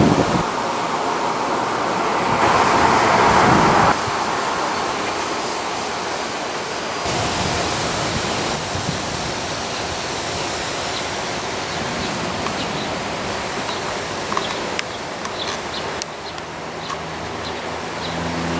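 Wind blowing across the microphone, a steady rush that swells in a stronger gust a few seconds in. Near the end, a vehicle's low engine hum comes in.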